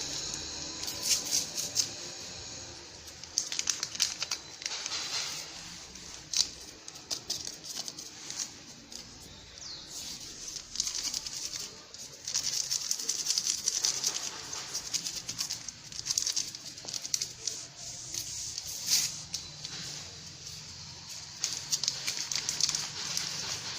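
Paper sachets of baking powder rustling and crinkling in irregular bursts with small clicks, as they are torn open and emptied into the mixing bowl.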